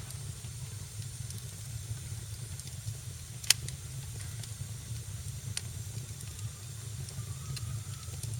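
Wood fire crackling in a fireplace: a steady low rumble and faint hiss with scattered sharp pops, one much louder pop about three and a half seconds in.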